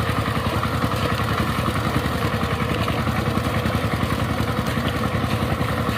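Diesel engine of a walking power tiller running steadily under way, with a fast, even beat.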